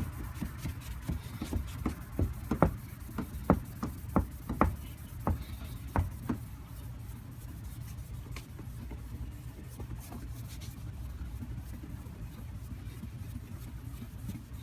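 A cloth sock rubbed back and forth on a plastic headlight lens wet with restorer liquid: a quick run of short scraping strokes that stops about six seconds in. A steady low rumble runs underneath.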